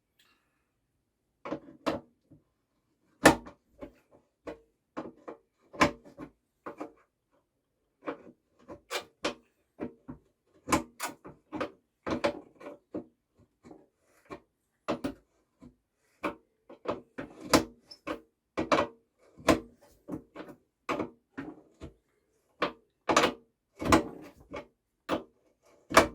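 Irregular clicks, knocks and clatter of a wheel being refitted to a push mower by hand: washers, nut and a 17 mm spanner being worked onto the wheel bolt.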